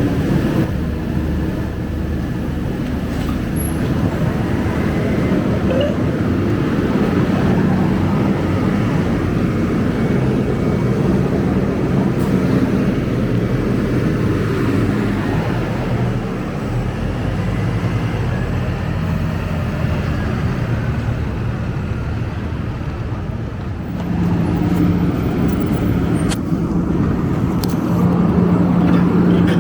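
Diesel engine of a Scania K250UB single-decker bus running, with road traffic noise. The engine note gets stronger about 24 seconds in.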